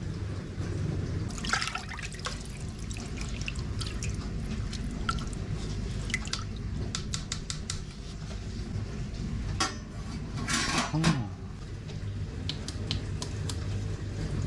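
Milk or other liquid pouring and dripping in a kitchen, with many small clinks of dishes over a steady low hum. A brief voice is heard near the end.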